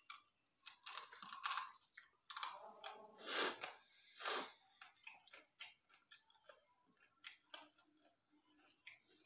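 Close-up chewing and crunching of mutton on the bone: irregular small crackles and clicks, with two louder, rushing sounds about three and a half and four and a half seconds in.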